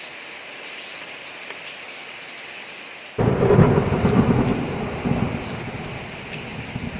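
Steady rain falling on a street. About three seconds in, a sudden loud clap of thunder starts, then rumbles and fades over the next few seconds.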